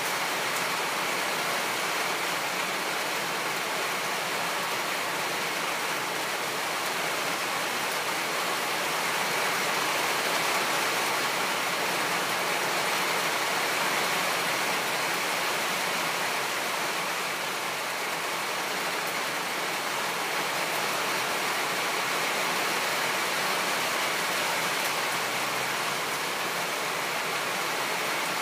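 Steady hiss of falling rain, even and unbroken throughout.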